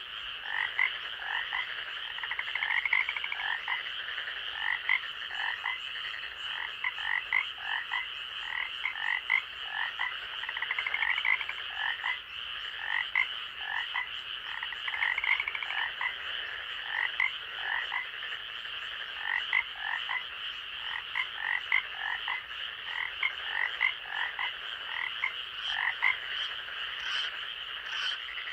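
Night chorus of frogs calling: many short notes repeated in quick, uneven succession over a steady high-pitched drone.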